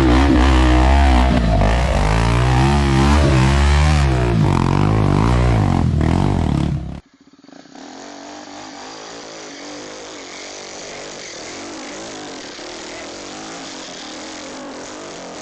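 Dirt bike engine revving up and down hard, close and loud. About seven seconds in it cuts off abruptly and a much quieter steady rushing noise follows.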